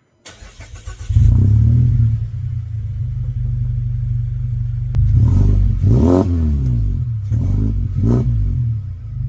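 2024 Mazda 3's 2.5-litre four-cylinder engine starting up and running with its axle-back section removed, so the exhaust blows straight out of the open mid pipe: a loud, raw drone, revved up and back down twice in the second half.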